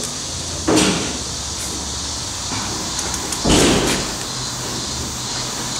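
Two short scuffing knocks, about three seconds apart, as a styrofoam insulation piece is pushed and pressed into a gap over fresh urethane foam.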